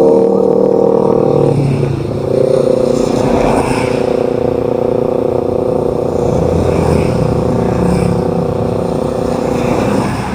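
A vehicle engine running at a steady pace under low road rumble, its tone dipping briefly about a second and a half in before settling again.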